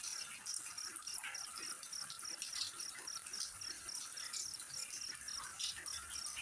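Insect chirping steadily, a regular train of short high chirps about four a second, over a soft hiss of water with faint scattered ticks.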